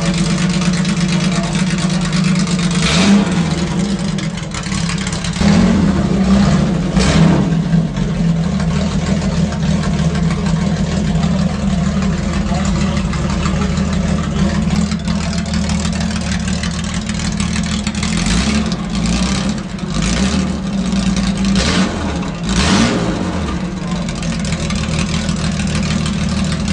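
Performance-built Jaguar 4.2-litre XK straight-six engine running at a steady idle. It is revved briefly about three seconds in and again around seven seconds, then given a series of quick throttle blips later on.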